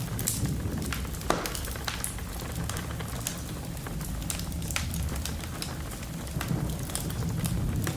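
Fireplace crackling with many sharp pops, one louder pop about a second in, over a steady low rumble of wind and rain from a thunderstorm.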